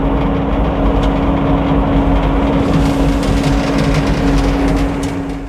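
An old Frick sawmill running: a loud, even machine noise with a steady hum and a low rumble, unbroken throughout.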